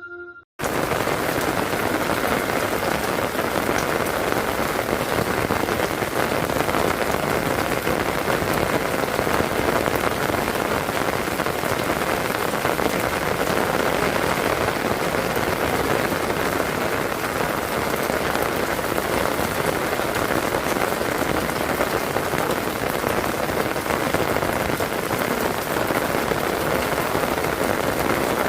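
Heavy rain pouring steadily, a dense even hiss of drops hitting the ground and surfaces, starting suddenly about half a second in.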